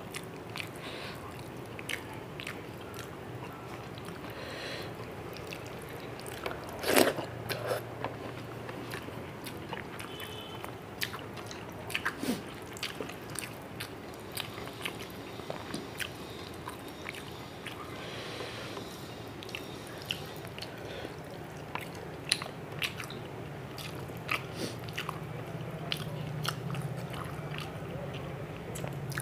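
Close-miked eating by hand: wet chewing and lip smacks on mouthfuls of rice and fish curry, mixed with the soft squish of fingers working the rice on the plate, as a steady run of small clicks. One louder sharp sound stands out about seven seconds in.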